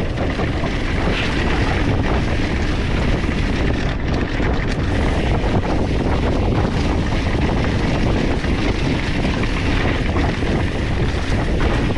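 Wind rushing over the microphone and a steady rumble of mountain bike tyres rolling fast over a dirt trail.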